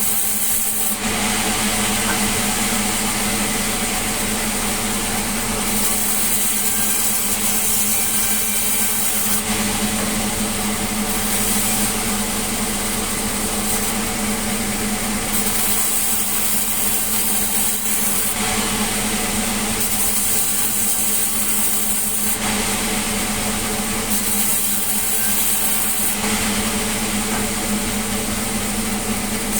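Sawmill machinery running steadily with a constant low hum. A hiss in the upper range grows stronger and weaker every few seconds.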